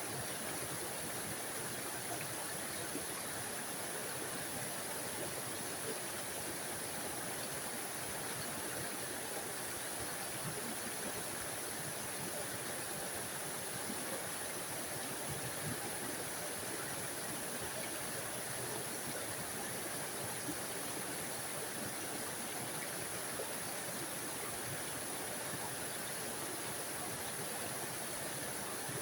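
A tiny forest waterfall: water spilling and splashing in an even, unbroken rush with no pauses or changes.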